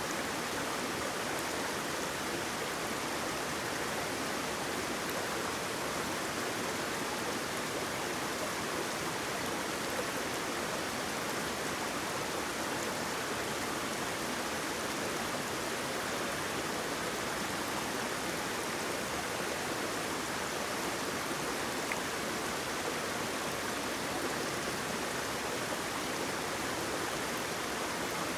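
Flowing water rushing steadily, a waterfall or stream, as an even rushing noise without breaks.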